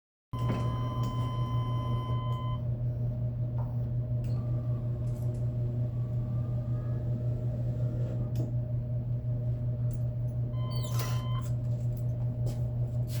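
A steady low machine hum, with a high electronic beep lasting about two seconds near the start and a shorter beep about eleven seconds in.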